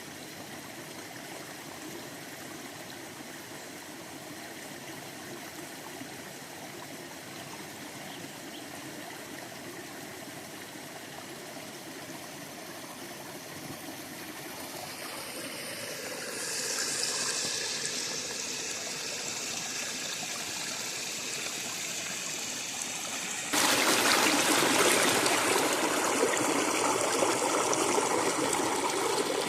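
River water flowing and rushing with no pitch, a steady rush that grows louder about halfway through and then jumps suddenly to a much louder, closer rush near the end.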